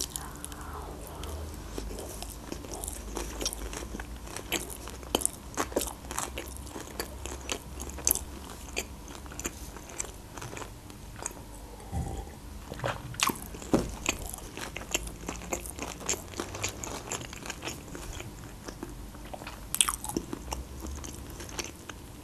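Close-miked chewing of a mouthful of fried sushi roll: steady wet smacks and small clicks of the mouth. About halfway through, a sip of water from a glass.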